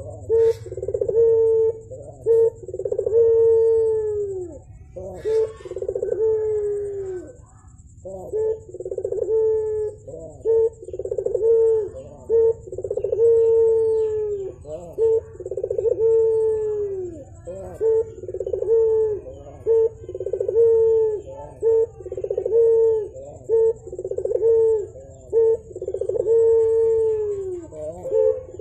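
Barbary dove (burung puter) cooing over and over in a low, steady voice, roughly one coo every two seconds. Each coo ends with a drop in pitch. The calling pauses briefly about seven seconds in.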